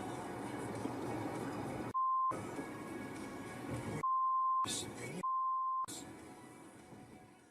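Three censor bleeps, each a steady pure 1 kHz tone that blanks out all other sound: a short one about two seconds in, then two longer ones of about half a second around four and five seconds in. Between them runs background audio that fades out near the end.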